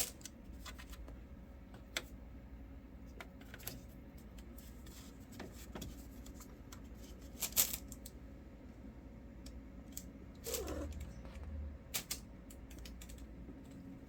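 Scattered light taps and clicks, irregular and sharp, the loudest a cluster about seven and a half seconds in, with one short falling squeak about ten and a half seconds in.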